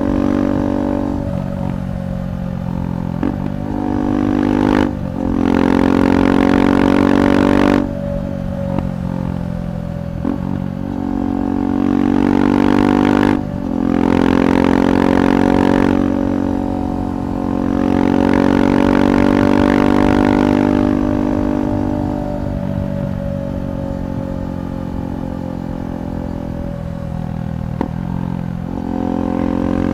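KTM 390 Adventure's single-cylinder engine running through a Red Rooster aftermarket exhaust while ridden. It pulls hard under throttle in several surges, with the pitch climbing and falling. It cuts off abruptly about 5, 8 and 13 seconds in as the throttle is closed or a gear is changed, and runs lighter in between.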